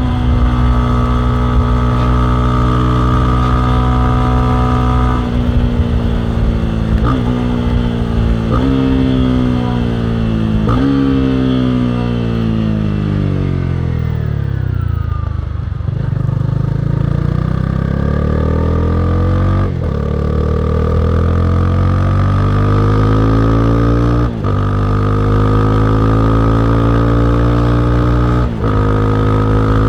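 Honda CB300R's single-cylinder engine under riding: steady at first, then the engine speed falls for about ten seconds and climbs again, with short breaks at the gear changes.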